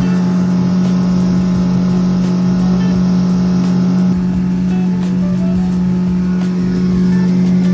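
Motorboat engine running steadily at speed, a loud, even drone that holds the same pitch throughout.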